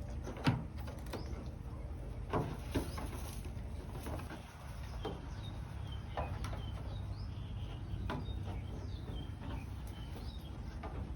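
Small birds chirping with short, repeated high notes that slide downward, over a steady low hum, with several scattered knocks.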